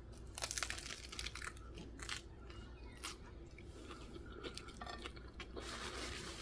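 A person biting into and chewing a wrap of fried portobello mushroom strips: a run of faint, irregular crunches.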